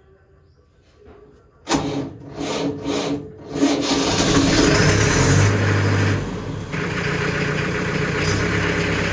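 McCormick International B-375 tractor's diesel engine being cold-started after preheating: a couple of seconds of uneven cranking, then it catches, runs up loud and settles into a steady idle.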